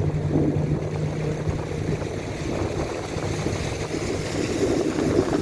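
Tour boat's motor running at a steady low hum over a wash of water and wind noise.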